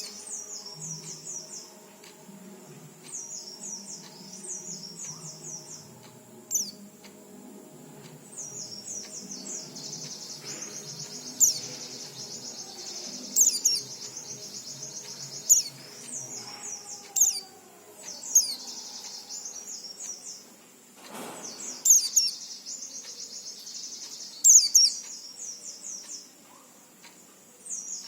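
White-eye (pleci) singing: bursts of rapid, high twittering song every one to three seconds, with short pauses between phrases.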